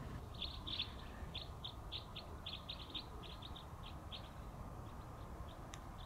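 A bird chirping: a quick run of short, high chirps, several a second, for about four seconds, then a few fainter ones.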